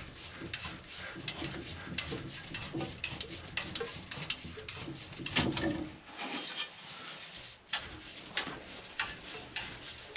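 Irregular light metallic clicks and scrapes of hand tools working on copper water lines.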